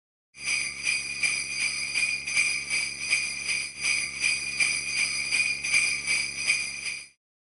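Sleigh bells jingling in a steady shaken rhythm, about three shakes a second. The sound starts and stops abruptly.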